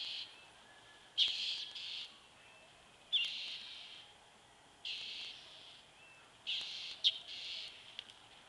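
A bird giving harsh, hissy calls over and over, each about half a second to a second long, one every second and a half or so.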